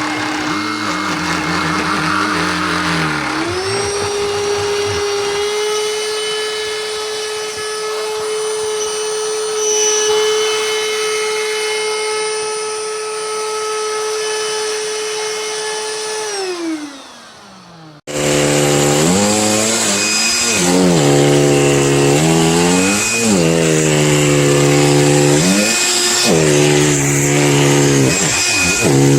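A BLACK+DECKER Dustbuster cordless handheld pet vacuum running with a steady motor whine that steps up in pitch about three seconds in, then winds down as the motor is switched off. After a sudden break, a motor runs with its pitch rising and falling over and over, about every second and a half.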